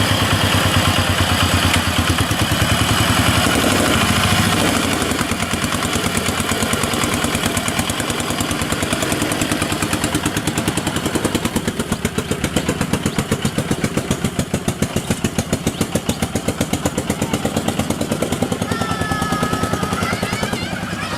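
A small engine running steadily with a fast, even chugging beat, having started just before.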